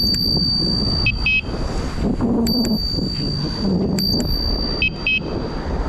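Handlebar bicycle bell rung three times, each ring a high ding that hangs on for about a second, with short clicks in between, over wind and road noise from the moving bike.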